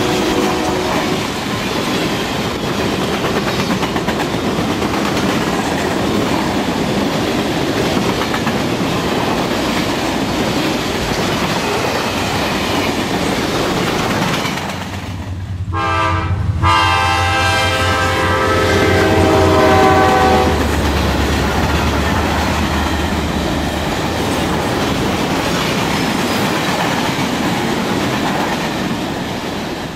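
N-scale model trains running on the track, a steady rolling noise with a clickety-clack. A multi-tone train horn sounds briefly at the start and again about halfway through, a short blast then a longer one lasting a few seconds.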